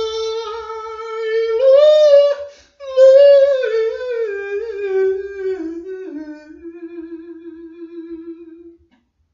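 A single voice singing or humming wordless, drawn-out notes, climbing about two seconds in and then sliding gradually lower. It ends on a long wavering note that stops shortly before the end.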